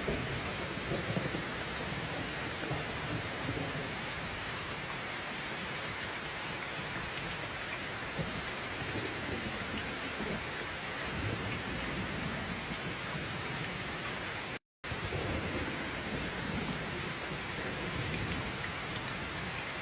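Steady heavy rain falling, with low rolling rumbles of thunder swelling and fading underneath. The sound drops out to silence for a split second about fifteen seconds in.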